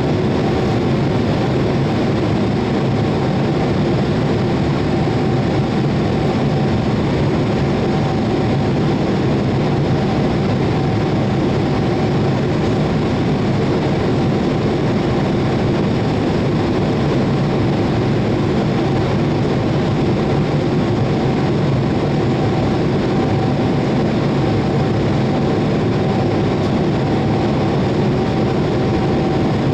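Boeing 787-8's Rolls-Royce Trent 1000 jet engines and airflow running steadily in flight, a constant rumble with one steady mid-pitched tone through it.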